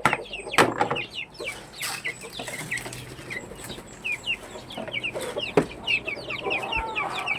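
Backyard chickens: chicks peeping constantly in quick, high, falling chirps, mixed with lower hen clucks and a few sharp knocks.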